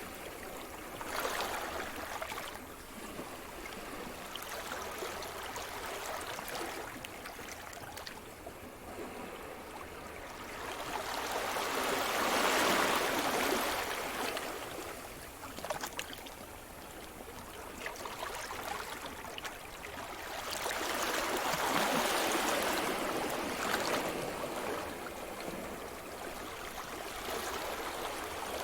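Sea surf: waves breaking and washing up the shore as a continuous hiss of water and foam. Two big waves swell and fade, one near the middle and one about three quarters in, with a softer fizzing wash between.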